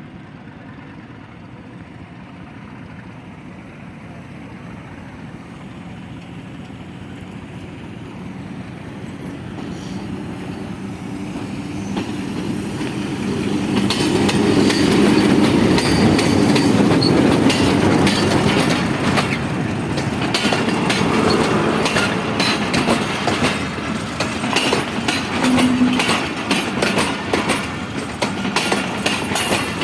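Passenger express train pulling out and passing close by. It grows steadily louder over about fourteen seconds into the loud rumble of coaches, with wheels clattering over the rail joints.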